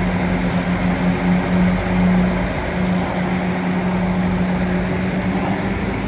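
A bulldozer's diesel engine running at a steady speed, with a held low tone that wavers slightly and rough mechanical noise above it.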